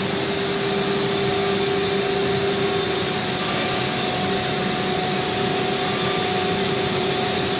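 ATC CNC router running steadily: a constant whirring machine noise with a steady hum tone through it.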